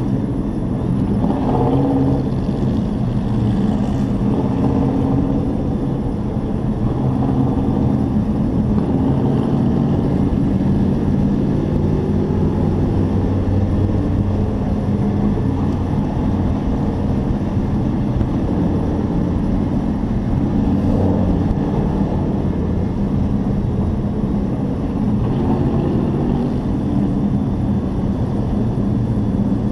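Race truck engine heard from an in-car camera, running hard at racing speed. Its pitch rises and falls over a steady rush of noise.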